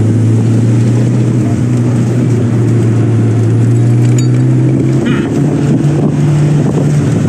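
Toyota Corolla FX16's 4A-GE twin-cam four-cylinder engine running steadily under way, heard from inside the cabin through its stiff new polyurethane motor mounts. Its note rises in pitch about five seconds in.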